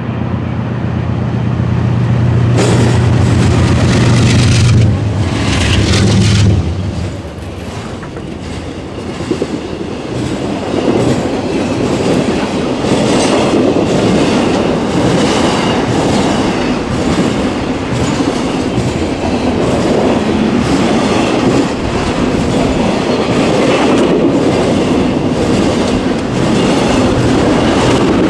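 Diesel freight locomotives pass close below with a steady low engine drone, loudest a few seconds in, that falls away after about six seconds. Intermodal container cars then roll by with a steady rumble and wheels clicking over the rails.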